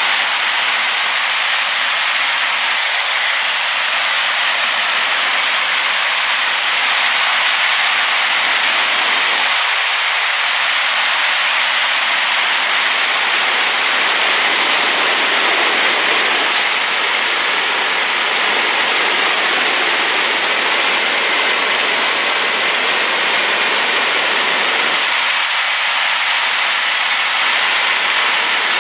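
A rain-swollen waterfall pouring, a loud, steady rushing hiss.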